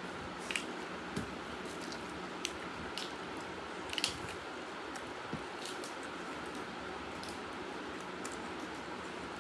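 Close-up eating sounds: wet chewing and mouth smacks with scattered short, crisp clicks, the sharpest about half a second in and about four seconds in, over a steady hiss.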